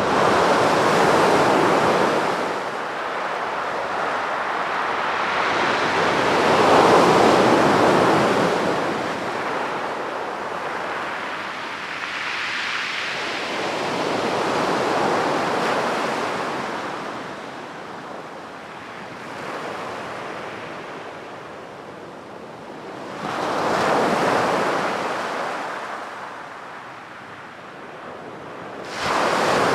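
Ocean waves breaking on a beach, surf washing in and out in slow surges every several seconds, with a sudden surge near the end.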